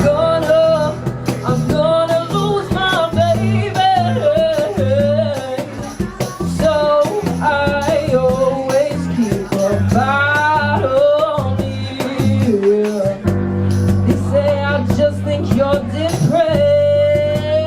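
Live band playing a soul-pop song: a lead melody line that bends and slides, sung or played, over bass, guitar and drums, with steady cymbal hits.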